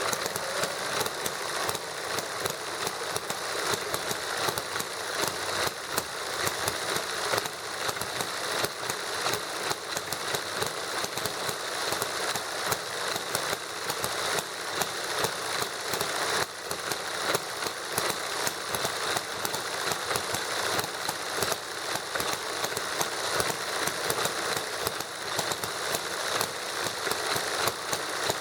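Two small model engines running together, a toy hit-and-miss gasoline engine and a Stirling engine: a steady, rapid mechanical clatter of fine clicks.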